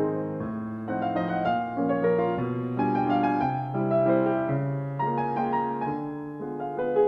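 Background piano music: a slow, gentle piece of successive ringing notes and chords.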